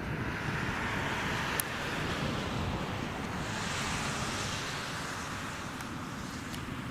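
Jet airliner engine noise, a steady rushing roar whose hiss brightens around the middle and eases off near the end, with wind rumbling on the microphone.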